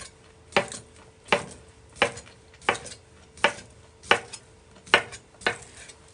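A kitchen knife chopping canola flowers (nanohana) on a cutting board in a steady rhythm, about three chops every two seconds, stopping near the end.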